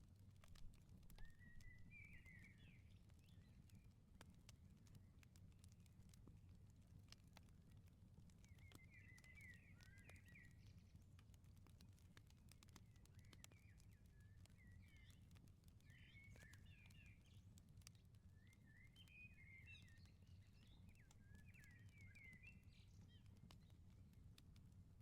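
Very faint outdoor ambience: sparse small crackles from a wood fire in a firepit, with a small bird twittering in several short bouts and a low steady rumble underneath.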